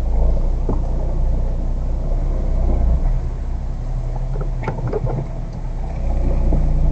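Car engine running at low speed as the car creeps over to the side of the road: a steady low rumble, with a few faint knocks about two-thirds of the way in.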